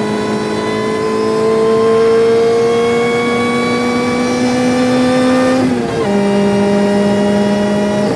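Car engine under sustained acceleration, its pitch climbing slowly as the revs build. About six seconds in the pitch drops sharply on an upshift and then starts climbing again, and another shift comes at the very end.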